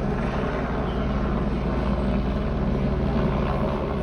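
Steady hum of police aircraft rotors running, a constant drone with a fast low beat underneath.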